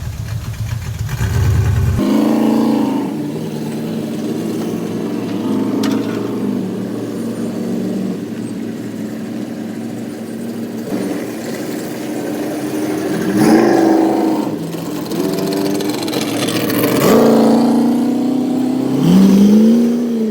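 Car engine running with its pitch rising and falling in several revs, about 13 s, 17 s and 19 s in, as the car is driven in.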